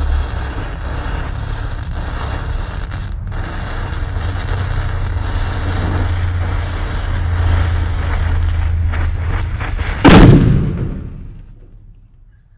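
A steady rumbling noise, then a single loud firecracker bang about ten seconds in that dies away over a second or so.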